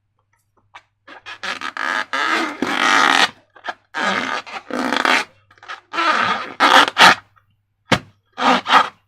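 Slime being squished and worked by hand in four bursts of wet, crackling squelching, each a second or two long.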